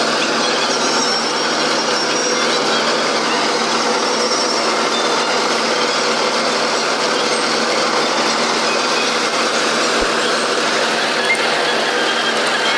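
Combine harvester running steadily while harvesting a paddy field, a loud unbroken machine noise.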